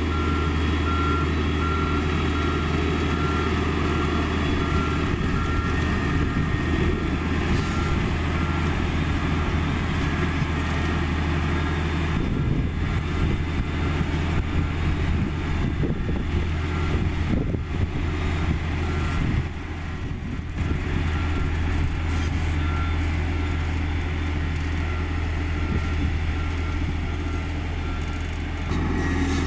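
Heavy diesel engine of a Komatsu GD555 motor grader running steadily while its reversing alarm beeps at a regular pace; the beeping stops for about ten seconds near the middle, then resumes and stops again shortly before the end.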